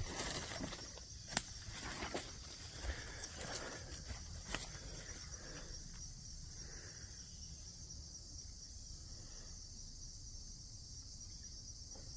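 Steady high-pitched chorus of crickets and other insects, with scattered footsteps and small knocks in the first half. The sharpest click comes about a second and a half in.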